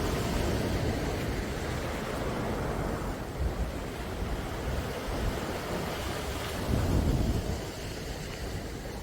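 Sea waves washing in, a continuous rush of surf that swells about seven seconds in, with a low wind rumble on the microphone.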